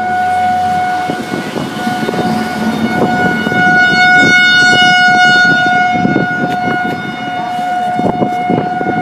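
Outdoor tornado warning siren sounding one steady wailing tone, swelling in loudness about halfway through and then easing, as the siren head rotates, over a low rumble.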